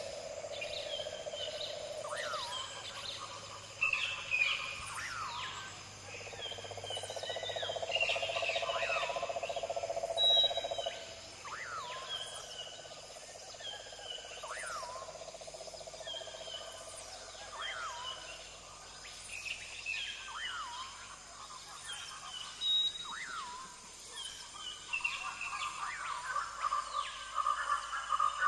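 Several wild birds calling together: many short, repeated chirps and whistled calls overlapping. A lower droning call runs under them at the start and again for a few seconds in the middle.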